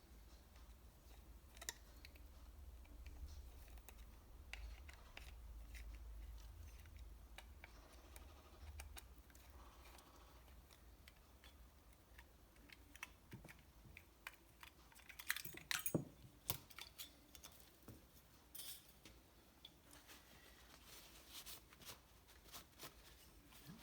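Faint scattered clicks and clinks of small metal engine parts being handled on a workbench, with a cluster of louder clicks about two-thirds of the way in. A low hum runs under the first part.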